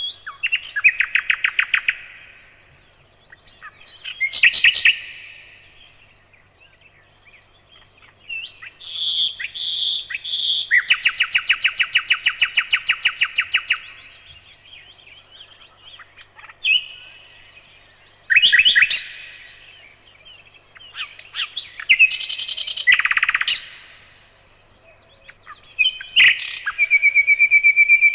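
Nightingale singing: a string of varied phrases with short pauses between them, each a rapid run of repeated notes. Near the end comes a fast, even trill.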